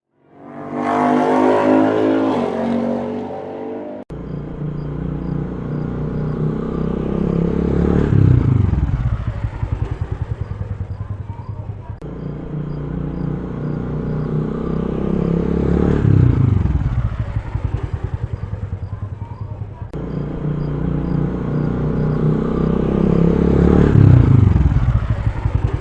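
Motor vehicle engine, likely a motorcycle, running and revving in a repeating loop. The same cycle comes round every eight seconds: a steady low drone builds, then falls away in a dropping sweep. A rising swell opens it.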